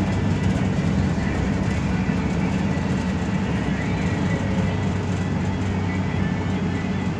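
City bus running on the road, heard from inside the cabin: a steady engine drone with a low hum, over tyre and road noise.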